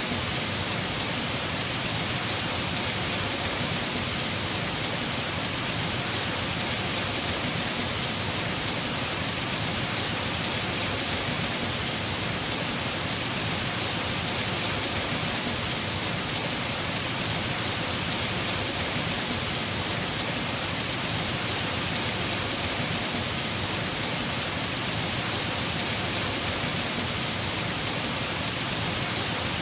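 Heavy rain drumming on a house roof, a steady unbroken hiss.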